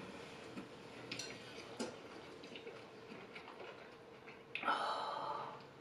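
Quiet eating sounds: faint chewing and mouth noises with a few small clicks, then a louder noisy mouth sound lasting about a second near the end.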